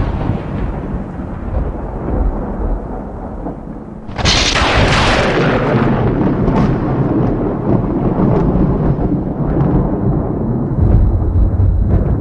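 Thunder: a rumble dying away, then a sharp thunderclap about four seconds in, followed by a long rolling rumble.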